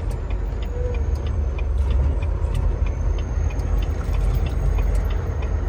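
Semi-truck's diesel engine running, a steady low rumble, with faint regular ticking over it.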